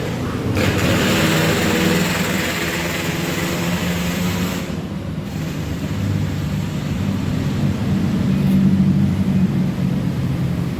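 An engine running steadily, a low hum. A broad hiss lies over it from about half a second in until nearly five seconds in.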